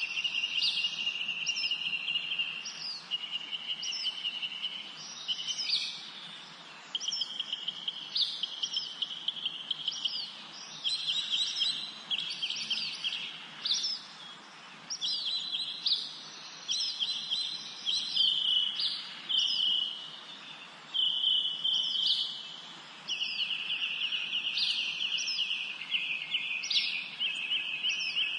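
Songbirds singing: rapid trills repeated in bursts of one to two seconds, with short high falling notes over them throughout.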